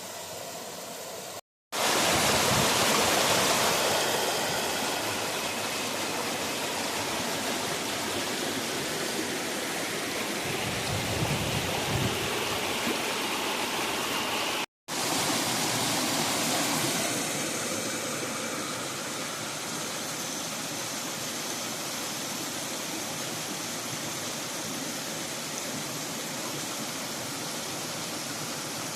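River water flowing and rushing as a steady, even noise. The sound cuts out for a moment twice, once near the start and once about halfway, and is loudest just after the first break.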